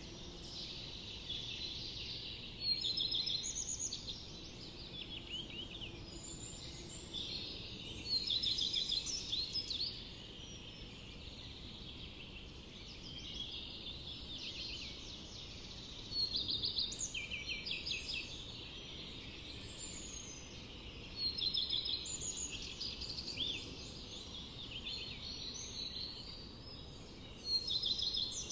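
Forest songbirds singing: one bird repeats a loud, quick song phrase of rapid notes about every five to six seconds, over a steady background of other birds calling.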